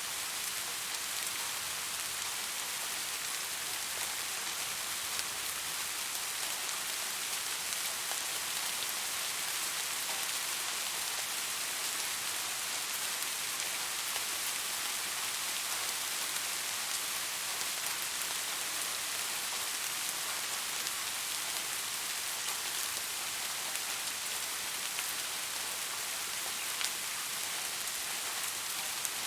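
Steady rain falling on a surface, an even hiss dotted with fine drop ticks.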